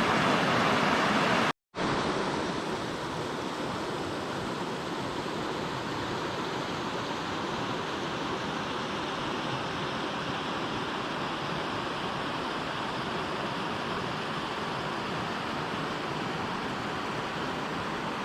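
Steady rush of river water flowing, an even hiss-like roar, with a brief silent gap about a second and a half in, after which it carries on a little quieter.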